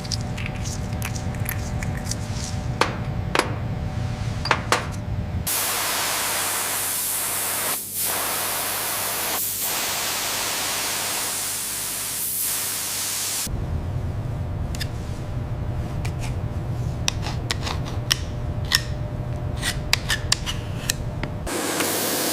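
A steady spraying hiss that lasts several seconds, set between stretches of low rumbling broken by sharp clicks and taps.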